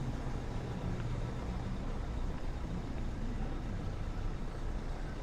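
Steady low rumble of town street ambience, like road traffic, with no distinct events.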